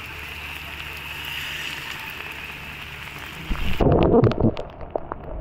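Heavy rain hissing steadily on a wet road. About three and a half seconds in, it gives way abruptly to a louder, irregular rumble with scattered knocks, the top end cut off, as at a cut in the recording.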